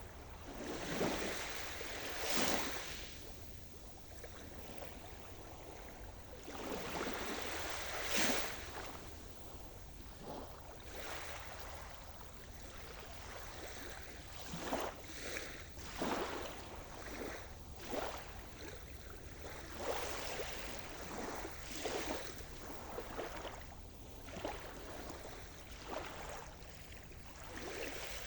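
Sea surf: waves breaking and washing up the shore in irregular surges. Two larger breakers come in the first ten seconds, followed by smaller, quicker washes.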